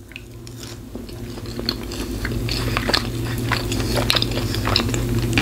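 Close-up chewing of a mouthful of Cajun fries, with many small irregular mouth clicks, over a low steady hum that grows slowly louder.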